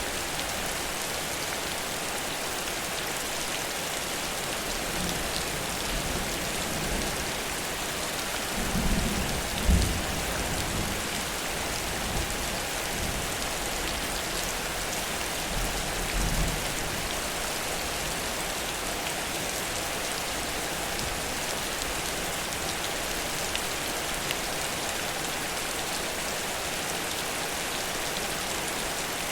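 Heavy rain pouring steadily. A low rumble of thunder swells about nine seconds in, and a smaller one comes around sixteen seconds.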